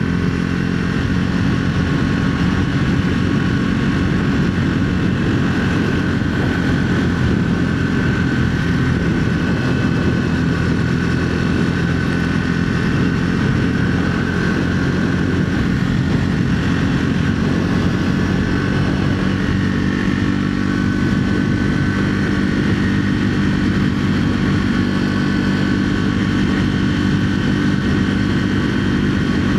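2025 Triumph Speed 400's single-cylinder engine running under way at a steady, nearly unchanging pitch, with the thumper-like exhaust note of a single.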